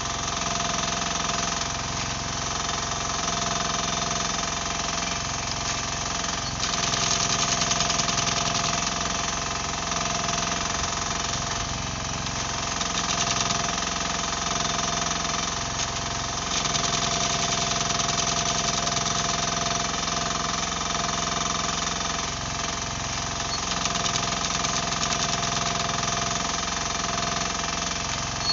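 Mini excavator engine running steadily, its note getting louder and harsher for a few seconds at a time about three times as the machine works.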